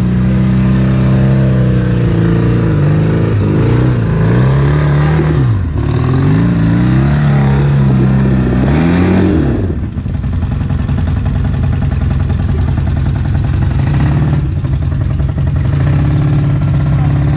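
Side-by-side UTV engine revved up and down several times, then dropping back about ten seconds in to run steadily at a lower speed.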